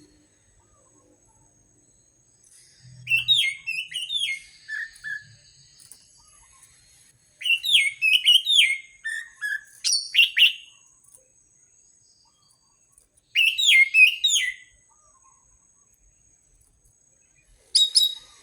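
Orange-headed thrush singing: four bursts of quick, varied whistled phrases with sweeping notes, separated by pauses of a couple of seconds, the last burst short.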